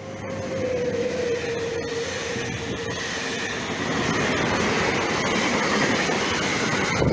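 Electric-hauled military train passing at speed: the locomotive's tone sinks in pitch as it goes by, then the coaches and flat wagons of military vehicles rush past with a steady rolling rumble and wheel clatter. A thin high wheel squeal runs through the second half.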